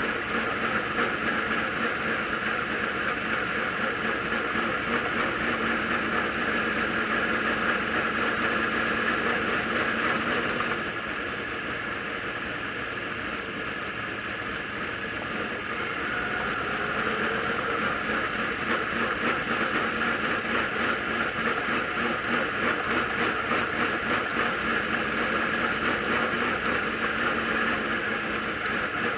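Dirt late model race car engine running steadily at low, parade-pace speed. It eases off about 11 seconds in and picks up again some five seconds later.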